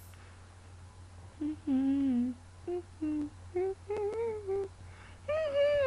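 A girl humming a string of short notes that slide up and down, with brief pauses between them, and a longer, louder note near the end.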